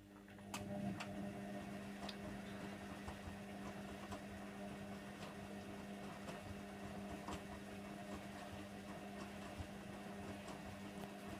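Hoover Nextra HNWL7146 washer dryer turning its drum during the wash, a steady motor hum over the swish of wet bedding and water, with scattered light clicks. The hum starts at the very beginning.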